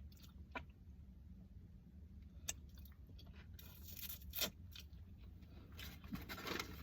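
A person quietly chewing and biting into fast food, with a few short sharp clicks spread through and brief louder stretches of noise about four and six seconds in.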